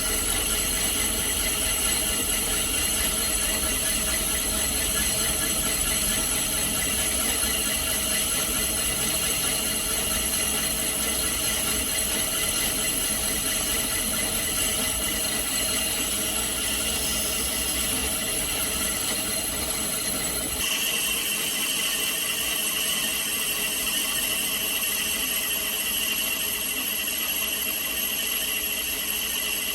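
Metal lathe machining a tractor front-axle part, with a steady squeal from the cut over the machine's running. About two-thirds of the way through, the low rumble drops away and a higher whine takes over.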